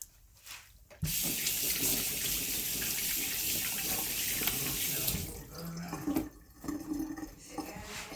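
Water running hard from a kitchen tap into a sink. It is turned on suddenly about a second in and cut back about four seconds later.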